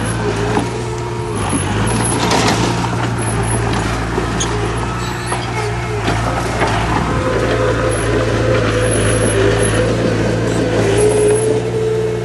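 Heavy diesel earthmoving machinery running steadily under load, with a higher whine that shifts in pitch and scattered clatter.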